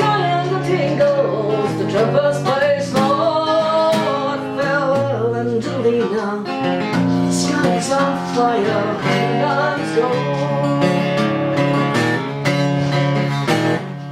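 Acoustic guitar playing the instrumental close of a folk song, plucked and strummed.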